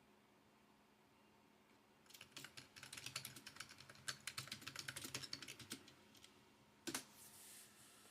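Typing on a computer keyboard: quiet for about two seconds, then a quick run of keystrokes lasting about four seconds. Near the end there is one louder key press.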